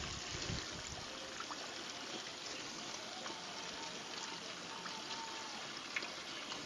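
Hot oil bubbling and sizzling steadily in a deep-fat turkey fryer pot with a whole turkey in it, with a single sharp click about six seconds in.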